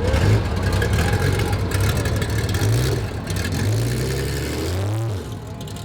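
Car engine revving, its pitch rising and falling a few times; the sound fades near the end.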